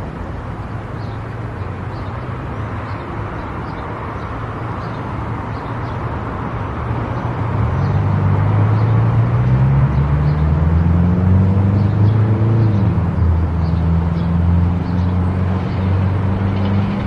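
Car driving on a highway: a steady rush of tyre and road noise. About seven seconds in, a low engine drone joins it and grows louder.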